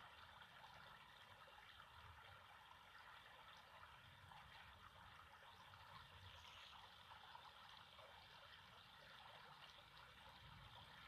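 Near silence: a faint, steady hiss with a little low rumble.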